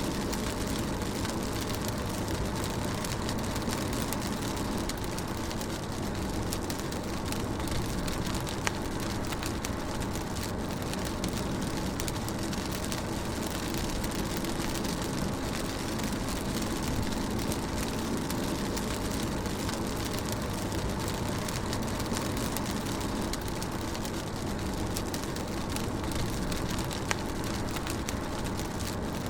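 Rain on a moving car, heard from inside the cabin: a steady hiss of rain and road noise over a low engine drone, with scattered raindrop taps and a couple of louder single taps.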